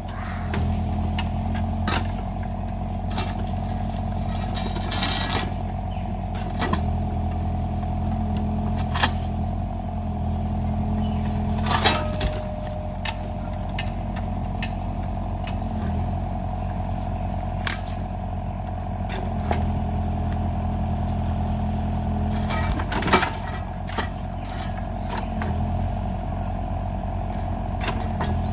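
Kubota excavator's diesel engine running steadily, its note strengthening in several stretches as the hydraulics work, with scattered knocks and clatters.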